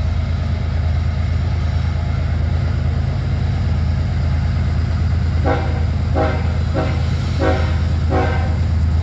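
Two diesel locomotives working hard under throttle, with a deep, steady engine rumble. A little past halfway, the locomotive horn gives five short toots in quick succession: the engineer's friendly greeting.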